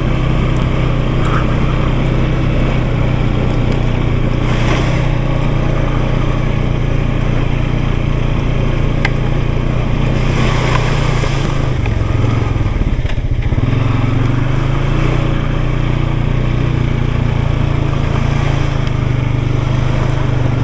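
Small off-road vehicle engine running steadily under way on a trail, its note dipping briefly and picking up again about two-thirds of the way through. There are two short rushes of noise along the way.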